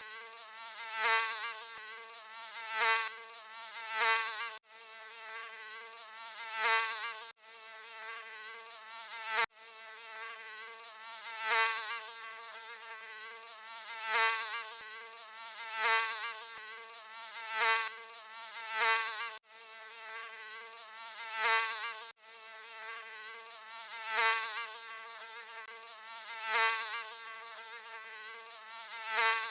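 Mosquito buzzing: a thin, high whine that swells louder every two seconds or so, like repeated passes close by, with a few brief sudden dropouts.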